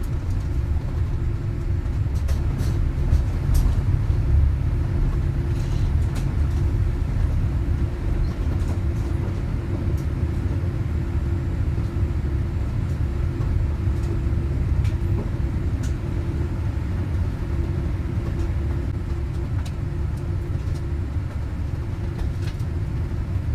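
Steady low rumble of a Boeing 787-8 Dreamliner heard from inside the passenger cabin, with a steady hum and a few faint clicks or rattles.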